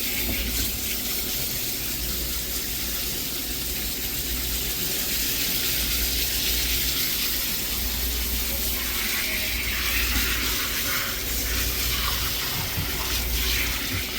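Running water rinsing a dog off during its bath, a steady rushing spray.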